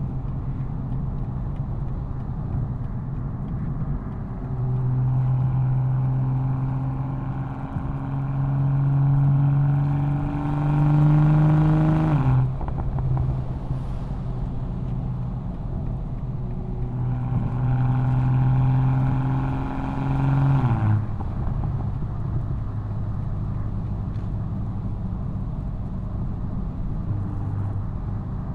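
BMW M240i's B58 turbocharged inline-six exhaust under load: it pulls twice with a slowly rising pitch, each pull ending in a sudden drop as the driver lifts or shifts up. Between and after the pulls it runs at a steady, lower cruising note.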